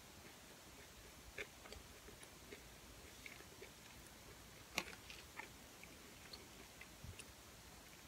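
Quiet close-miked chewing with the mouth closed: faint scattered mouth clicks, with one sharper click about five seconds in.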